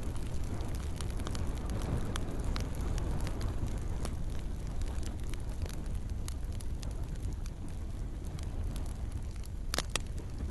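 Wood campfire crackling, with irregular snaps and pops over a steady low rumble; two sharper, louder pops come close together near the end.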